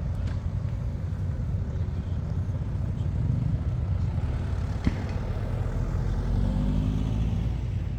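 Motorcycle engines running and moving past, a steady low rumble, with one getting louder near the end. A single sharp click about five seconds in.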